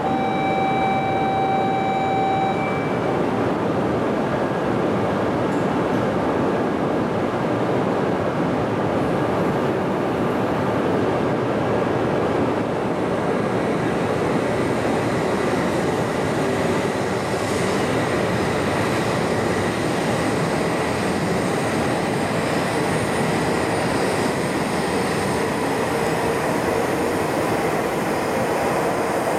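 E5 series Shinkansen train departing from the platform: steady rolling and running noise of the train, with a steady tone sounding for the first two seconds or so.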